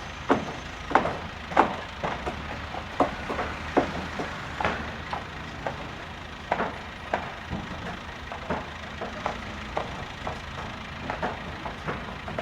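Construction site noise: irregular sharp knocks and clanks, two or three a second, over a steady low engine rumble.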